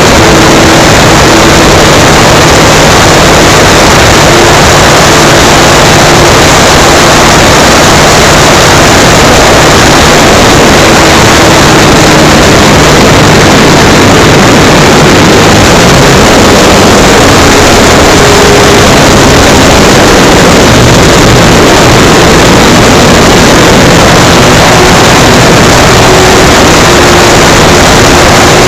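Electric motor and propeller of an FMS Cessna 182 RC model plane in flight, heard through a camera mounted on the plane, mixed with loud, steady wind rush. A faint low hum drifts slightly in pitch as the throttle changes.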